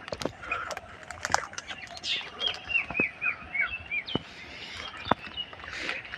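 Small birds chirping: a run of short, quick notes that each drop in pitch, about six in a row in the middle, with scattered sharp ticks.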